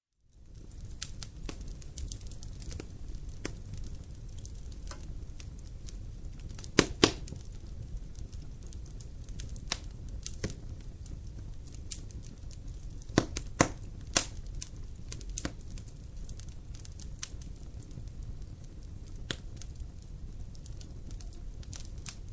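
Wood fire in a fireplace crackling, with a low steady rumble and scattered sharp pops. The loudest pops come about seven seconds in and again around thirteen to fourteen seconds. The sound fades in from silence at the very start.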